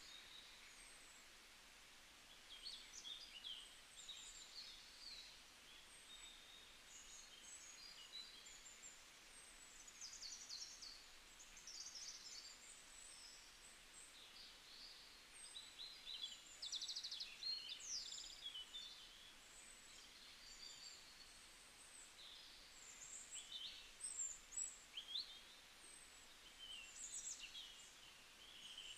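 Faint birdsong: many short chirps, trills and quick whistles from small birds, scattered throughout and overlapping, over a light background hiss.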